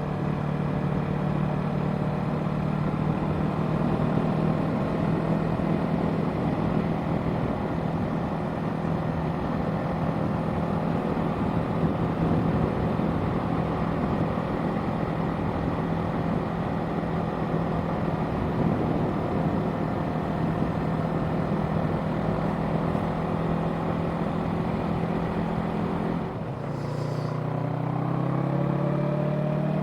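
Yamaha parallel-twin sport bike running at a steady cruising speed, with wind noise on the rider's microphone. Near the end the engine note drops, then climbs again as the bike pulls away.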